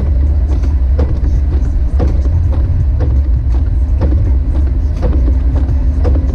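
Jeep Wrangler YJ driving through snow: a loud, steady low rumble with faint sharp ticks about twice a second.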